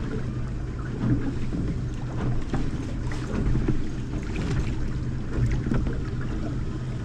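Fishing boat on the water: a steady low hum under wind buffeting the microphone, with scattered light taps and splashes.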